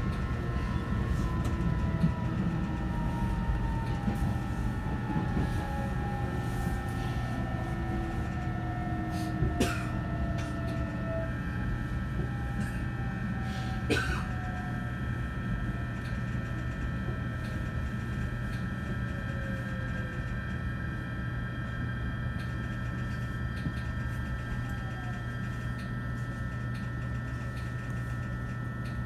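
Inside an E129-series electric train slowing for a station: steady rumble of wheels and running gear under steady electrical tones, with traction-motor whine falling in pitch as it brakes. Two sharp clicks sound about ten and fourteen seconds in.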